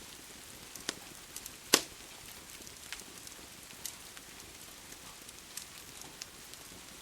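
Wood fire crackling with scattered sharp pops, one much louder about two seconds in, over a steady hiss of rain.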